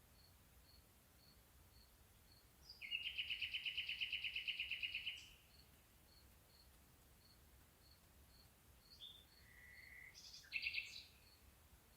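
Night-time bird and insect calls: a faint high tick repeats about three times a second throughout, a loud rapid trill runs for about two seconds near the start, and short whistled and buzzy calls come near the end.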